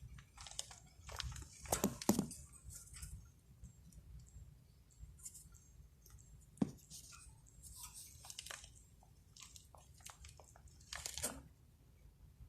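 Cage birds pecking and moving about: irregular clicks, scratches and crunches, with a louder flurry about two seconds in, a sharp click around the middle and another flurry near the end.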